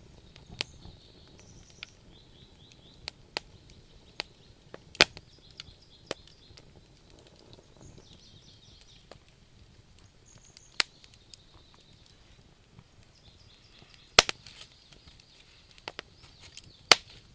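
Wood campfire crackling: irregular sharp pops and snaps from burning logs over a low background, the loudest about five seconds in and twice more near the end.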